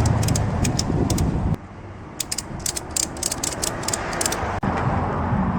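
Ratchet strap being cranked tight, two quick runs of clicks from its ratchet and pawl. A heavy low rumble underneath cuts off suddenly about a second and a half in.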